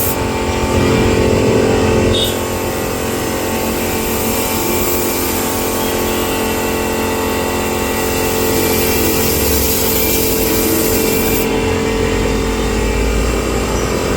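Spray gun hissing as it sprays polish onto teakwood, over the steady hum of an air compressor. The hiss cuts off about three-quarters of the way through while the compressor keeps running.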